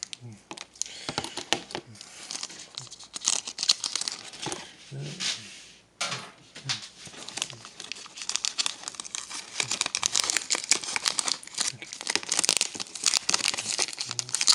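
Crinkling and tearing of a hockey card pack's wrapper as it is ripped open and handled, a dense run of crackly rustles with a brief lull about six seconds in.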